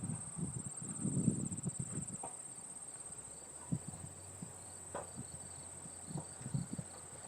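Steady high-pitched trilling of crickets in a summer meadow, running unbroken. Low rumbles in the first second or so, and a few soft knocks scattered through.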